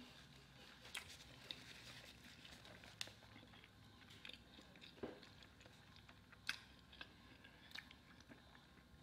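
A person chewing food quietly, with faint scattered mouth clicks and smacks.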